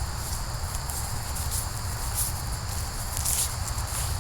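Insects trilling steadily and continuously at a high pitch, over a constant low rumble, with a few short rustles, the loudest about three seconds in.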